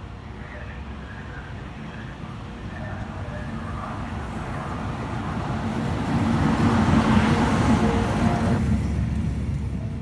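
A train passing at a railway station: rushing, rumbling noise with a steady motor hum that builds over several seconds, is loudest about seven seconds in, then drops off abruptly.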